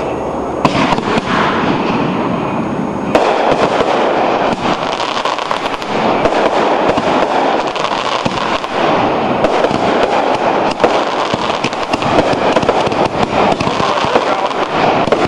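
Fireworks going off in a dense, continuous crackle of many rapid pops. It starts just under a second in and grows louder and thicker about three seconds in.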